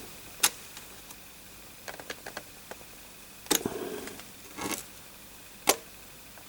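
Small screwdriver tip clicking and scraping against the pins of a corroded CPU socket: a few separate sharp ticks, a small cluster of them, and short scrapes about halfway through.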